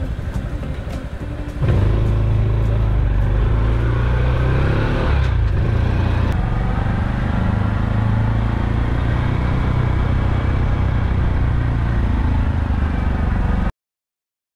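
A motorcycle engine runs steadily from about two seconds in, then the sound cuts off suddenly near the end.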